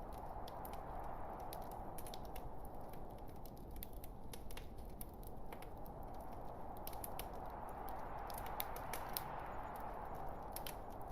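Logs burning in a fireplace: a steady rush of flames with many small, irregular crackles and pops, a couple of sharper pops a little after eight seconds in.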